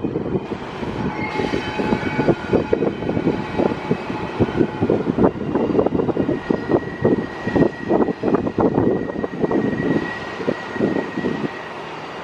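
CSX freight train of double-stacked container cars rolling past, its wheels rumbling and knocking over the rails. A thin, high, steady whine rises over the rumble about a second in and again for several seconds in the middle.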